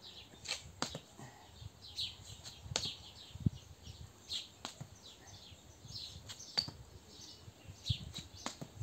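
Small birds chirping on and off in short, falling high calls, with scattered short clicks and a low thump about midway.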